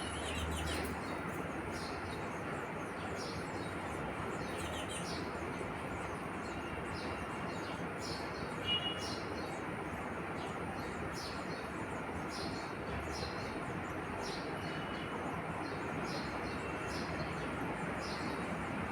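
Sparrows chirping in short, repeated chirps about once or twice a second, over a steady background rumble of noise.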